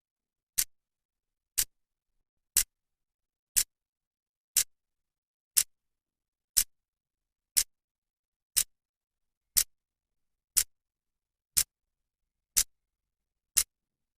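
Clock's second hand ticking once a second: fourteen sharp, even clicks with silence between them.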